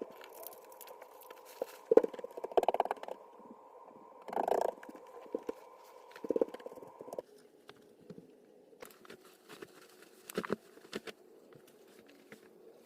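Scattered light knocks and clicks at irregular intervals, with a faint steady hum underneath that stops about seven seconds in.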